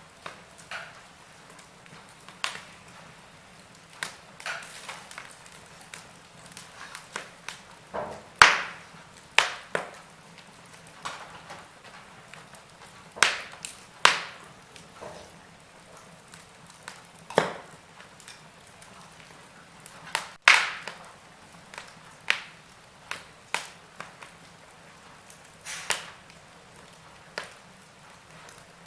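Wood fire crackling: irregular sharp pops and snaps of burning wood over a faint steady hiss, the loudest pops coming in the middle stretch.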